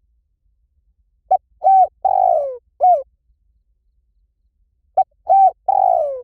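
Spotted dove cooing: two phrases of a few coos each, about four seconds apart, each with a longer falling middle note.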